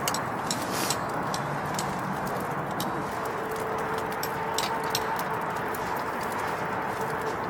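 Wood fire crackling: irregular sharp pops and snaps over a steady low rushing noise.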